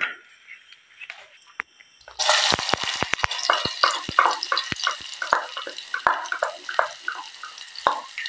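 Chopped shallots and chillies hitting hot oil in a pan about two seconds in, then sizzling with many sharp pops and spatters.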